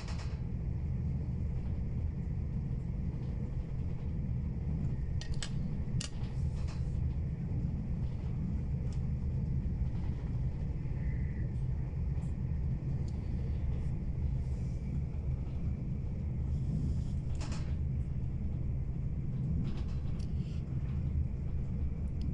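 Steady low rumble of a passenger train running at speed, heard from inside the carriage, with a few brief clicks and knocks along the way.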